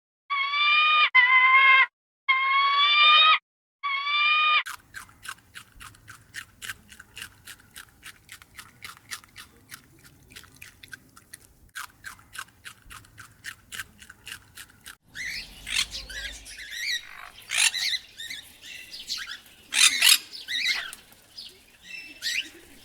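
Animal and bird calls in three parts. First come a few long pitched calls, each about a second long. Then a steady, fast series of short taps or ticks, about three to four a second, runs for about ten seconds, followed by irregular squawks and chirps.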